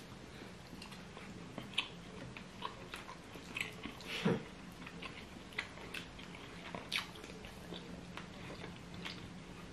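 Close-miked eating sounds of fufu with pepper soup eaten by hand: chewing and scattered short wet smacks and clicks, over a faint steady hum.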